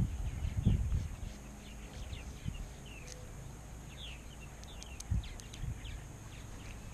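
Small birds chirping again and again in short falling chirps. There are low thumps about a second in and again about five seconds in.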